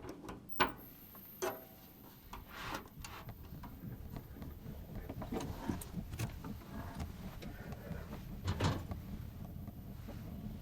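A heater being started: a few sharp clicks and knocks, then a steady low running sound that sets in a couple of seconds later and carries on.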